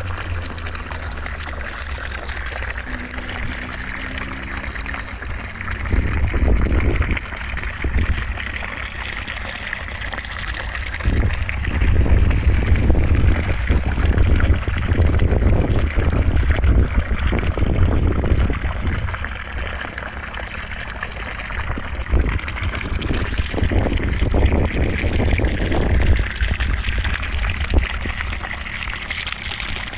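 Steady rushing of running water, swelling and easing every few seconds, played as white noise.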